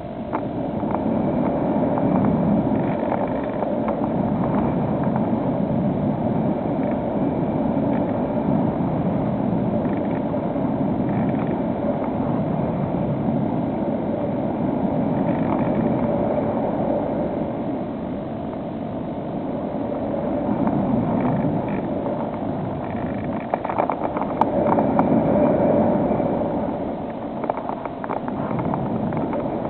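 Steady drone of a model airplane's electric motor and propeller mixed with a rushing noise, with a steady tone running through it.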